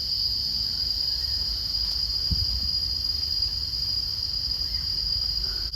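Steady high-pitched drone of forest insects, one unbroken shrill tone, over a low rumble with a dull thump about two seconds in.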